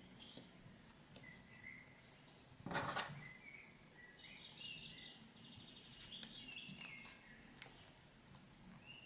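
Faint birds chirping in the background, short repeated calls. A brief rustle of handling about three seconds in is the loudest sound.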